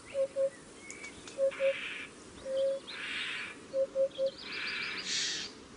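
Wild birds calling outdoors: short low hooting notes in twos and threes, with a few thin chirps and three brief hissing sounds in between.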